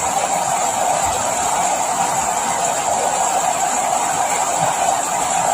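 Steady rain, an even wash of noise with no pauses.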